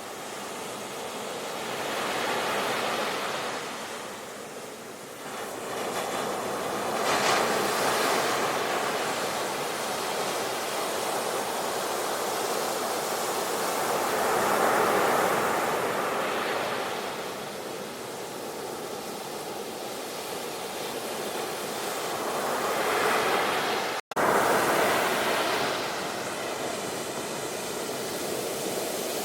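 Sea waves breaking and washing in, the surf swelling and falling away every several seconds. Near the end the sound cuts out for an instant.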